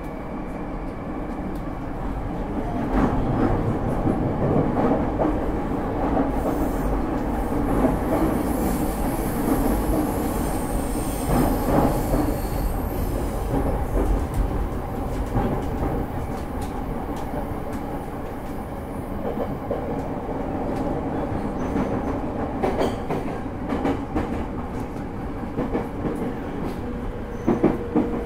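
Interior running noise of a JR East E231 series 1000-number commuter train in motion: wheels rumbling and knocking over the rails, with a faint high wheel squeal in the middle.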